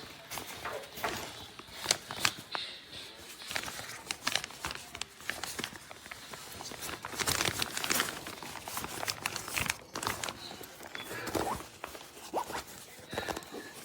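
Handling noise: crinkling and rustling with many scattered clicks and scrapes, most dense in the middle.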